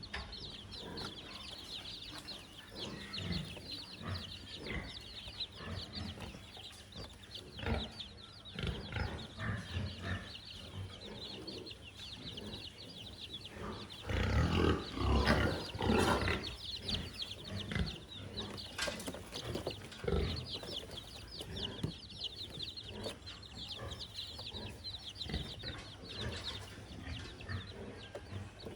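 Chickens clucking, with a steady high chirring behind them and a louder burst of activity about halfway through.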